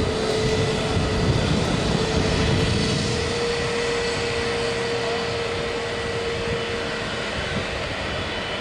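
Jet airliner engines running at low power: a steady rushing noise with a held whine that fades out near the end as the sound slowly gets quieter.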